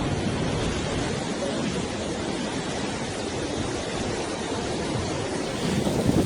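Steady rushing noise of sea waves, even and unbroken, with no distinct events.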